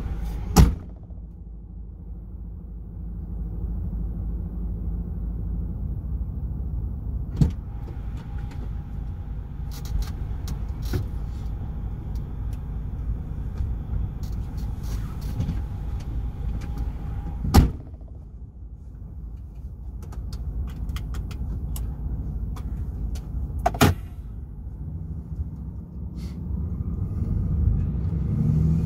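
DAF XF 480 truck's straight-six diesel engine and road rumble while driving, with a few sharp clicks or knocks now and then. The rumble gets louder near the end.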